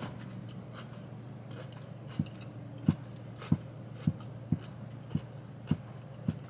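A person chewing a mouthful of food close to the microphone: soft, regular mouth clicks, a little under two a second, beginning about two seconds in, over a steady low hum in the car cabin.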